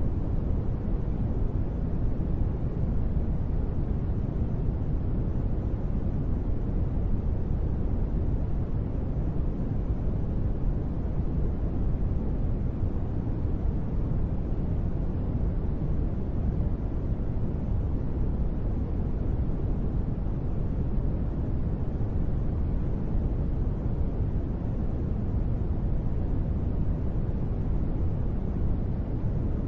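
Steady rain-noise ambience, deep in tone with little high hiss, even and unchanging, with no separate drops, thunder or other events.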